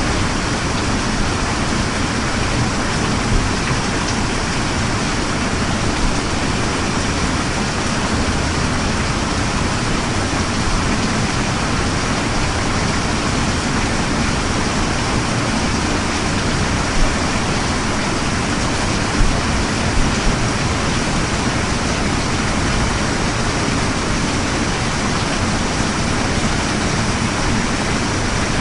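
Steady rain: a dense, even hiss with a few brief louder ticks scattered through it.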